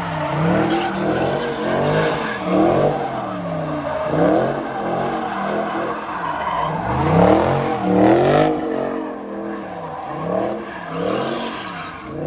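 A car engine revving up and falling back again and again, about once a second, with tire squeal, as the car slides and spins under power.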